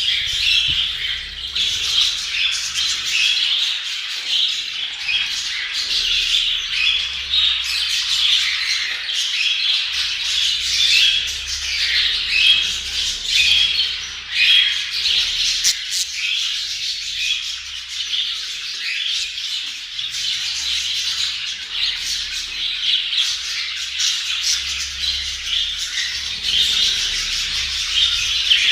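A group of budgerigars chattering and warbling continuously, with many short chirps and squawks overlapping.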